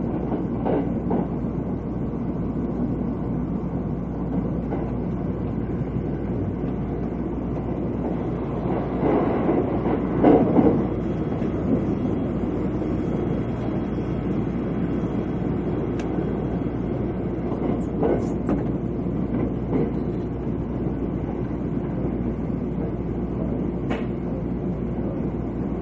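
Cabin noise of the limited express Thunderbird electric train running on the line: a steady low rumble from wheels and running gear, which swells briefly about ten seconds in, with a few sharp clicks later on.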